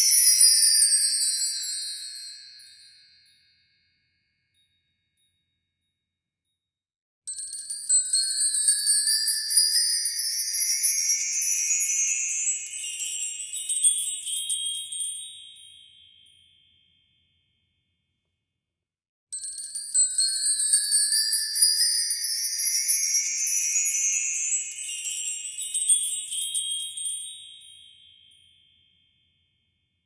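Added shimmering chime sound effect: sparkling high tones that glide upward for several seconds and fade out. It repeats twice, with dead silence between, and a falling sweep fades away at the start.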